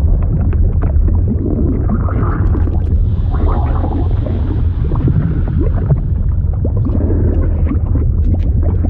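Liquid sound effect: a steady deep rumble with many small bubbling, gurgling pops over it.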